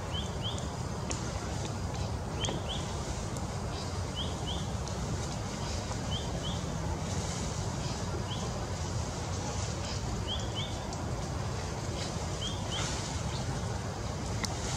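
A small bird calling again and again, each call a quick pair of short rising chirps, about every two seconds, over a steady low background rumble.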